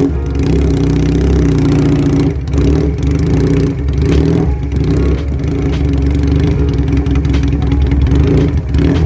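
Benelli Patagonian Eagle 250 V-twin running through a custom aftermarket exhaust as the bike pulls away and rides slowly. The engine note rises and falls with the throttle, with a few short dips.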